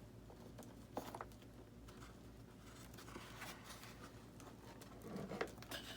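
Faint hand-handling noises: scattered small clicks and rustles of hands working with thin wire leads and plastic parts, with a sharper click about a second in and a few more near the end.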